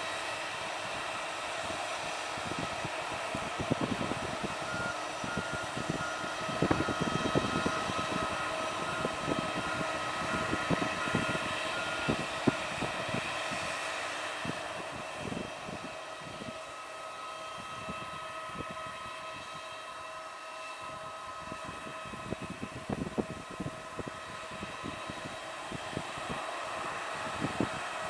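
Aircraft engines running steadily, a whine of several held tones over a rushing noise, with gusts of wind buffeting the microphone.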